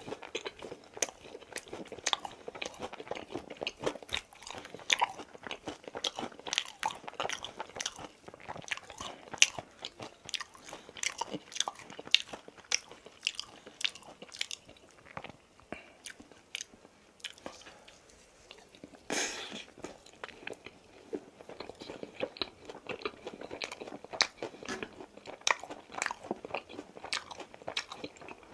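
Close-miked chewing of crispy boneless fried chicken, with a quick, irregular run of sharp crunches as each mouthful is bitten and chewed.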